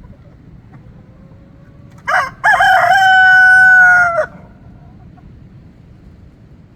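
Rooster crowing once, loud: a short opening note, a brief break, then a long held note that sags slightly in pitch and stops abruptly, about two seconds in all.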